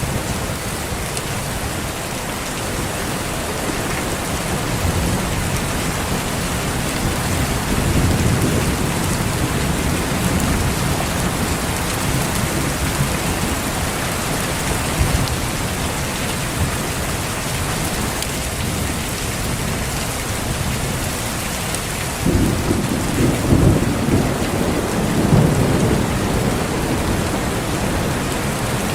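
Steady heavy rain with rolling thunder. Low rumbles come and go in the first half. A louder thunder roll breaks in suddenly about two-thirds of the way through and rumbles on for a few seconds.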